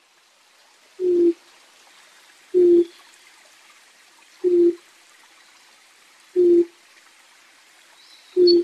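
A bird's call, a short low hooting note repeated five times at steady intervals of about two seconds over a faint hiss; the uploader suspects a bittern or an owl. A brief high chirp is heard near the end.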